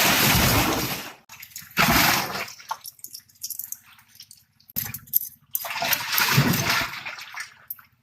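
Sea water washing and surging over the rocks in several swells: one at the start, a short one about two seconds in, and a longer one from about five to seven seconds, with quieter gaps between.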